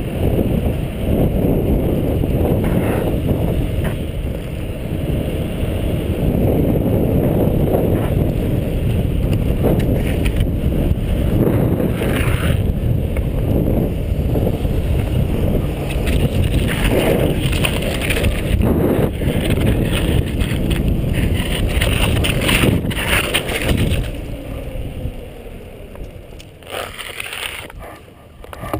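Wind buffeting the microphone over the rumble of a buttboard's wheels rolling at speed, with scattered brief clacks, fading over the last few seconds.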